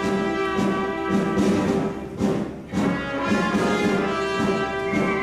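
Pit orchestra playing a brass-led show tune, with a rhythmic accompaniment under held brass chords and a brief pause in the middle.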